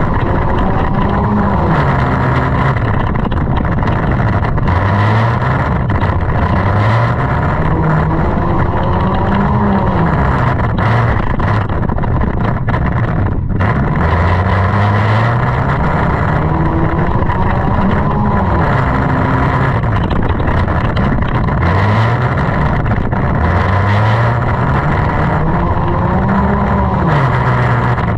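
Junk race car's engine revving up and dropping back over and over, its pitch climbing and falling every few seconds, over a steady loud rush of noise.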